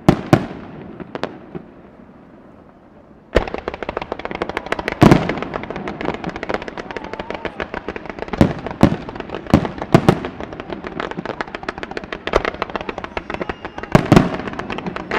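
Aerial fireworks going off: a few loud bangs, a short lull, then from about three seconds in a dense crackling barrage with repeated heavy bangs through to the end.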